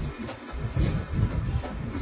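Express passenger train running on the rails, heard on board: a steady low rumble with irregular knocks from the wheels on the track.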